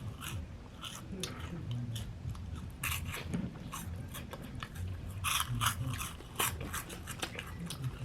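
Close-up crunching and chewing of crunchy spicy snack balls, a busy run of irregular sharp crunches with denser bursts about three and five and a half seconds in.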